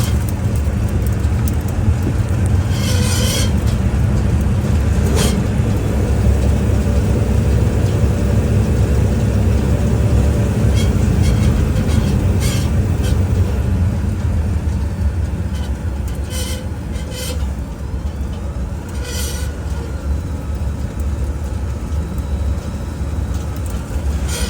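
Road and tyre rumble heard from inside the rear wheel well of a 2022 Ford F-150 PowerBoost on the move, with short metallic grinding bursts every few seconds: the sign of a rear axle bolt that has broken free.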